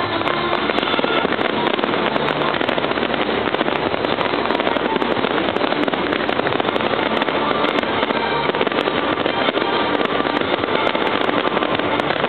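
Large professional fireworks display: a loud, continuous barrage of shell bursts, with many sharp bangs and crackles running together without a break.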